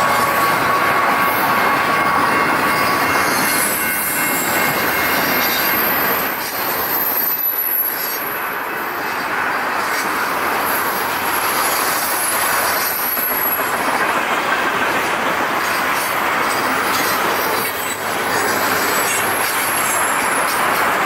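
Freight train's railcars rolling past close by, wheels clattering over the rail joints with thin, high-pitched wheel squeal.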